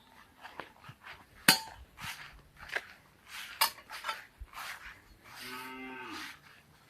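Footsteps on the ground with a couple of sharp clicks, then a cow lowing once, a short low moo of about a second, a little past halfway.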